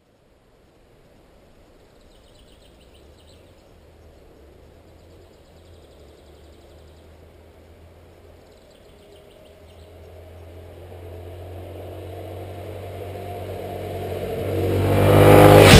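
Suzuki XF650 Freewind's single-cylinder engine approaching, faint at first and growing steadily louder until it is loudest close to the microphone near the end.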